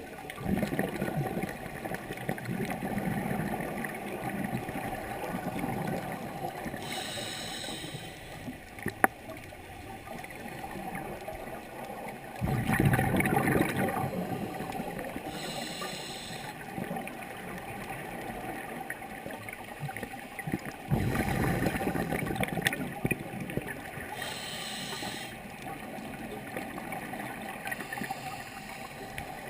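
Scuba diver breathing through a regulator underwater: short hissing inhalations, then longer, louder rushes of exhaled bubbles, about one breath every eight seconds.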